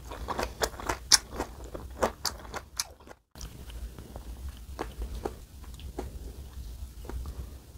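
Close-miked crunchy chewing of raw vegetables and bean sprouts, with many crisp irregular crunches. After a brief break in the sound about three seconds in, the chewing is quieter.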